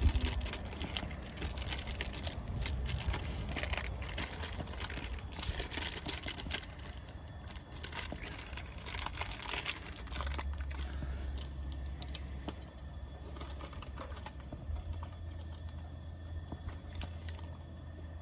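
Scattered clicks, taps and crinkling from handling camp cooking gear and packaging, busiest in the first ten seconds, over a steady low rumble that grows louder about ten seconds in.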